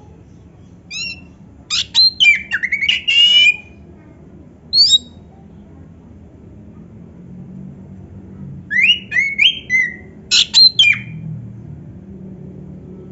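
Oriental magpie-robin (kacer) singing: two loud bursts of quick, varied whistles and sharp sweeping notes, one starting about a second in and another after about eight and a half seconds, with a single short call between them.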